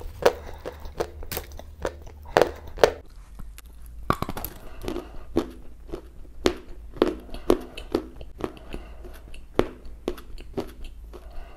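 Close-miked chewing of edible clay: crisp crunches as the clay breaks between the teeth, in an even rhythm of about two chews a second.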